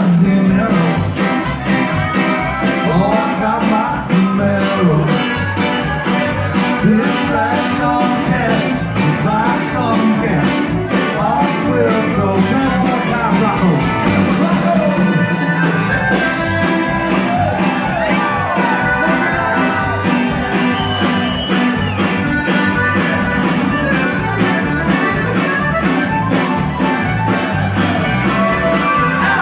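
A Tex-Mex band playing live, with singing over a steady beat.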